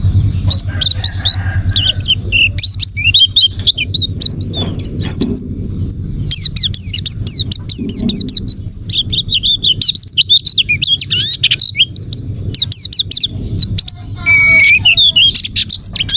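White-eye (pleci) singing a fast, continuous twittering song of sharp high chirps, used as a masteran song-training recording. Trickling water runs beneath it. A lower call with several stacked tones comes in about fourteen seconds in.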